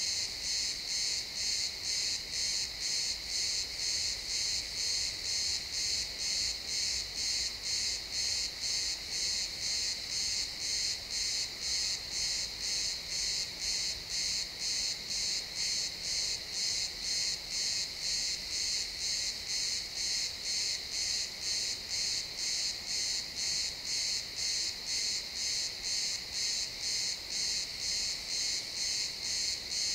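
Crickets chirping in a steady chorus with an even pulsing rhythm, about two pulses a second.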